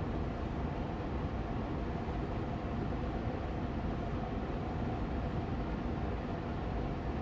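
Austin Air Allergy Machine air purifier fan running steadily on medium speed: an even rush of moving air with a faint steady hum.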